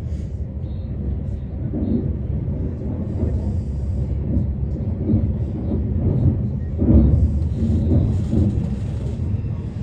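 Helsinki commuter train running, a steady low rumble with faint voices mixed in.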